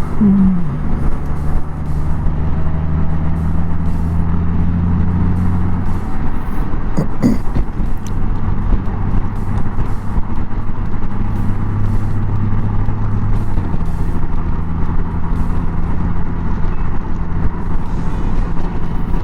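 Honda Gold Wing's flat-six engine running at cruise, its steady hum under wind and road noise. The hum changes pitch about six seconds in and again about halfway through, as the speed or gear changes.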